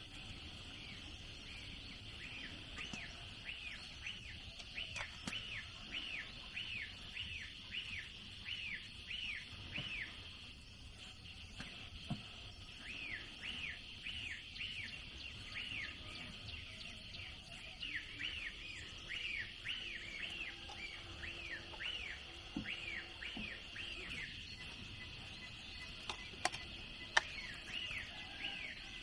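A bird calling in long runs of short, falling chirps, about three a second, breaking off twice, over a steady high hiss. A few sharp knocks come near the end.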